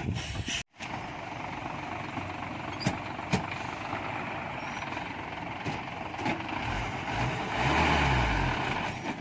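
Dump truck's diesel engine running under steady load, then revving up and back down near the end as the truck strains to pull out of the mud it is stuck in. A couple of sharp knocks sound near the middle.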